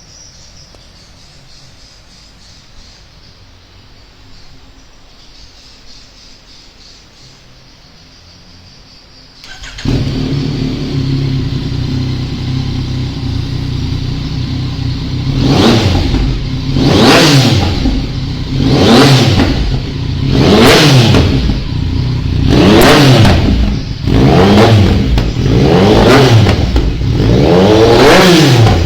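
Faint background ambience, then a motorcycle engine through an aftermarket Proformance exhaust comes in suddenly about ten seconds in. It idles for a few seconds, then is revved about eight times in a row, each blip rising and falling in pitch.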